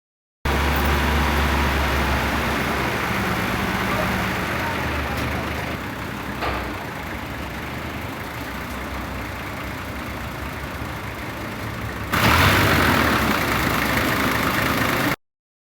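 An engine idling steadily. About 12 seconds in, it gives way to a louder, noisier stretch of running machinery.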